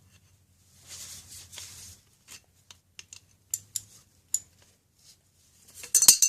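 A short rustle, then scattered sharp metallic clicks and clinks of a wrench turning a nut on the engine's shaft, ending in a louder quick cluster of clicks near the end.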